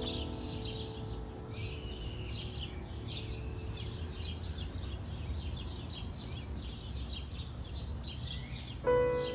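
Many small birds chirping, a busy stream of short overlapping high chirps over a low steady rumble. Background music with held notes fades out in the first second and comes back in loudly near the end.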